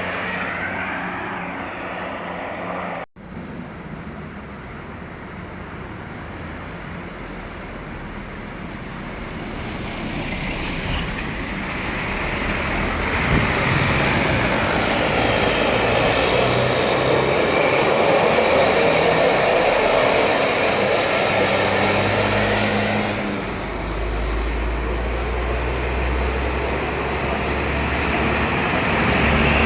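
A large vehicle passing close by, its engine and road noise swelling to a peak and easing off, with a heavy low rumble building again near the end. The sound cuts out abruptly about three seconds in.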